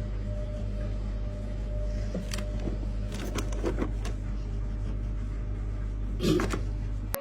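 Steady low mechanical hum with a faint higher whine, broken by a few short clicks and knocks, and cut off abruptly at the end.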